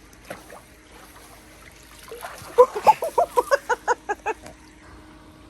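Water from a dog pool's hose-fed fountain jets trickling and splashing, with a quick run of about a dozen short pitched notes in the middle, roughly five a second.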